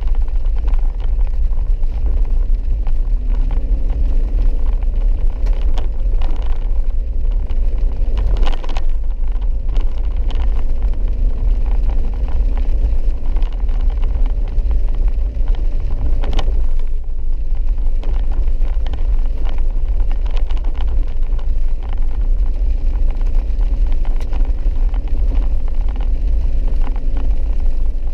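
Four-wheel-drive vehicle driving a rough dirt road: a steady low engine and road rumble, with a couple of sharper knocks, about eight and sixteen seconds in.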